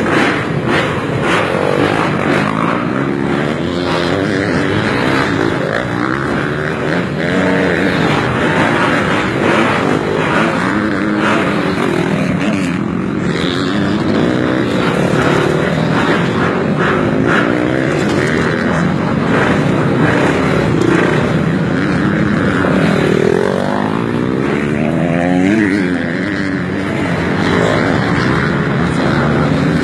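A pack of MX2-class motocross bikes running together, several engines overlapping as their revs rise and fall again and again.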